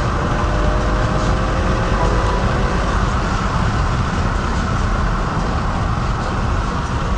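Steady road and engine noise inside a car's cabin while it drives along at speed: a deep, even rumble with tyre hiss, and a faint engine tone in the first few seconds.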